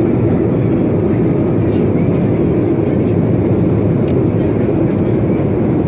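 Steady low rumble of airliner cabin noise in flight: engine and airflow noise filling the passenger cabin.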